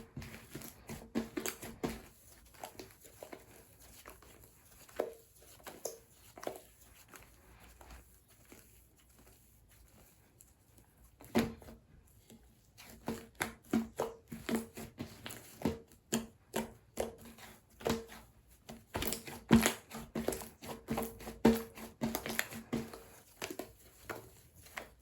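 Slime being squeezed and pressed by hand, giving clusters of sticky clicks and small air-bubble pops. The clicking thins out for a few seconds near the middle, then picks up again, denser and louder.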